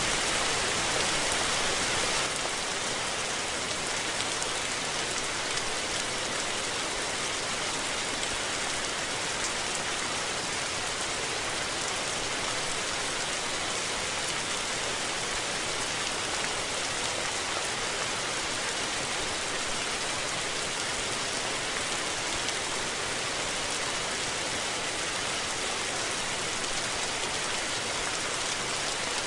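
Steady rain falling and pattering on surfaces, an even hiss of many drops with no thunder.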